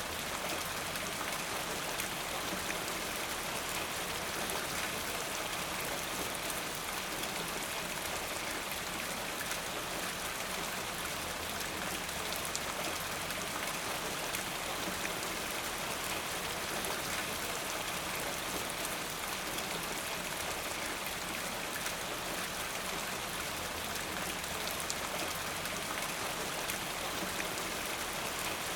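Steady rain falling, an even hiss with the patter of many small drops.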